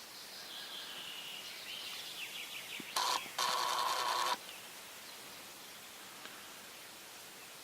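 Small birds chirping and trilling in the background, then two loud, harsh calls about three seconds in, the second lasting about a second.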